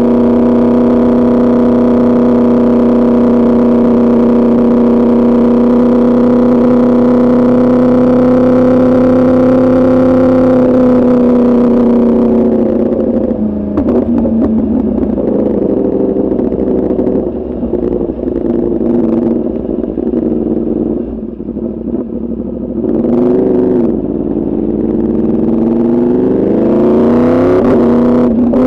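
2024 Yamaha R1's crossplane inline-four through an Arrow Pro Racing exhaust, running at a steady high engine speed. About 12 seconds in, the note drops and runs lower and uneven as the bike slows. There is a quick rev up and down about 23 seconds in, then the note rises again as it accelerates near the end.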